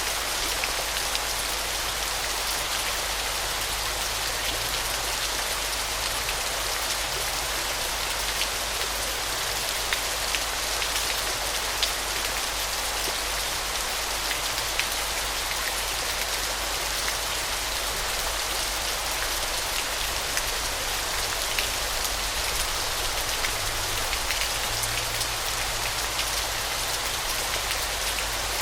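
Waterfall: a steady rush of falling water splashing, with scattered droplet-like ticks.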